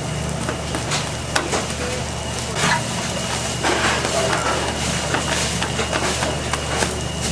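Wood fire crackling under the cauldron lids, with irregular sharp pops and snaps over a steady low hum.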